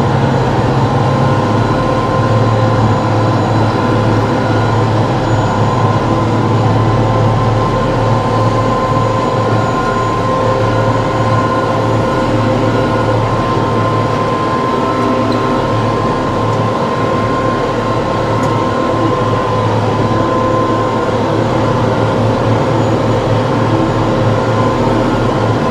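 TYM T654 tractor running steadily under load: an even engine drone with a steady whine above it.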